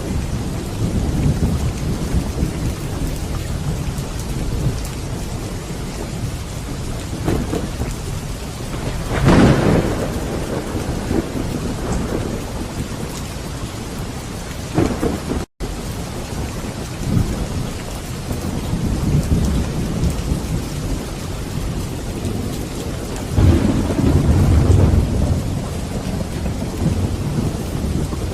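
Steady heavy rain with rolling thunder underneath; the thunder swells louder about nine seconds in and again near the end. A split-second gap in the sound falls about halfway through.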